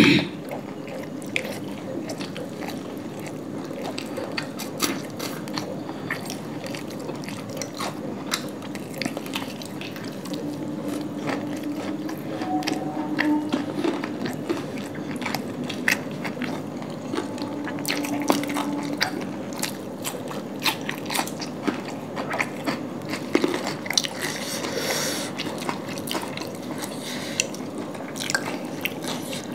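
Close-miked chewing and biting of flaky laccha paratha and chicken curry, with many small wet mouth clicks and crunches and the odd tear of bread. It opens with a brief loud knock.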